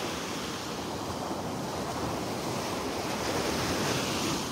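Gulf of Mexico surf washing onto the beach, with wind buffeting the microphone; the wash swells a little louder near the end, then eases.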